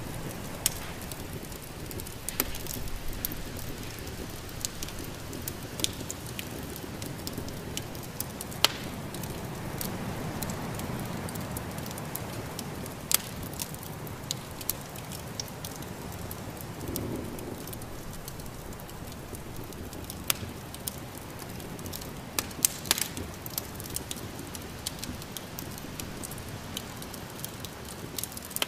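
Wood fire crackling in a fireplace, with irregular sharp pops scattered through a steady low rushing noise.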